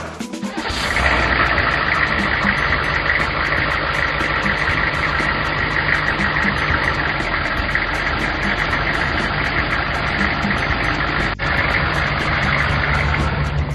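Cartoon vehicle engine sound effect, running steadily at idle, with a brief break about eleven seconds in.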